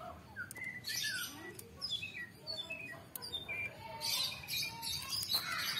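Birds chirping over and over in short falling notes, with a few squawks. A few brief rustling noises come in between.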